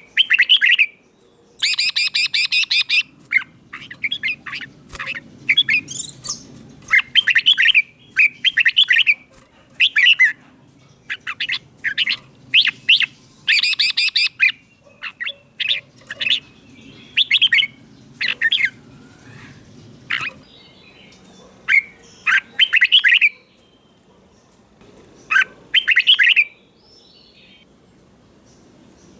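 Red-whiskered bulbul singing: short phrases of quick, bright, warbling whistled notes, one after another with brief pauses between them.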